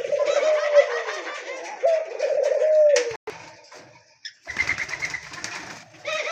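Caged doves cooing: two drawn-out coos about two seconds apart, over the chirping of small cage birds. A short gap comes about three seconds in, then the chirping resumes.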